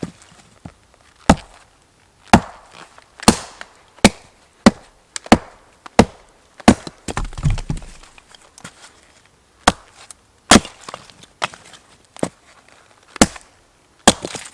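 Wood being chopped: a series of sharp blade strikes into wood, roughly one a second, with a short pause midway.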